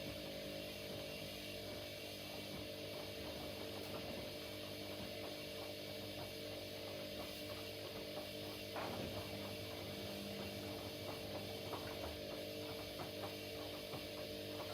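Front-loading washing machines running a wash programme: a steady motor hum over a hiss, with many faint ticks as the drum turns. The sound cuts off abruptly just after the end.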